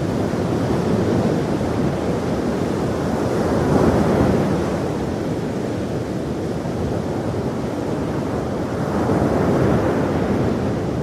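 Ocean waves washing onto a shore, a continuous surf rush that swells twice, about four seconds in and again near the end.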